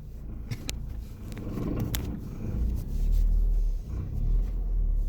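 Low rumble of a car running, heard from inside its cabin, growing heavier after about two and a half seconds, with a few light clicks early on.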